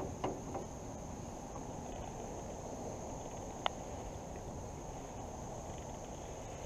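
Steady rush of fast-flowing floodwater in a creek with a constant high-pitched insect drone over it, and a single sharp click about three and a half seconds in.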